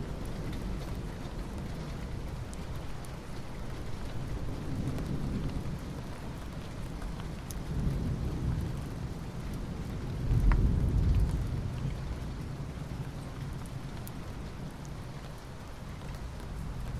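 Soft rain falling on asphalt, a steady hiss with scattered individual drop ticks. A low rumble swells up twice, the louder one about two-thirds of the way through.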